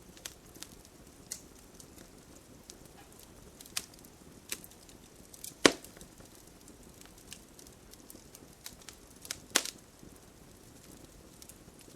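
Campfire burning: scattered crackles and small snaps over a low steady hiss, with two loud sharp pops, one about halfway through and another about four seconds later.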